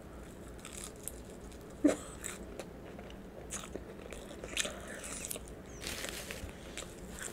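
A person biting and chewing crispy seasoned fries: a run of short crunches and mouth clicks, the sharpest about two seconds in.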